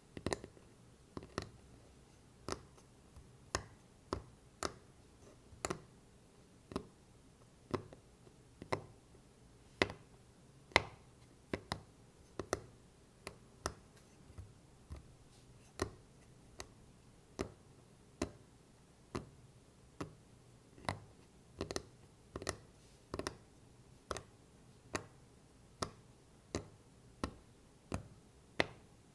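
Tapping on a wooden block: sharp, separate knocks at an uneven, unhurried pace of roughly one a second, some coming in quick pairs.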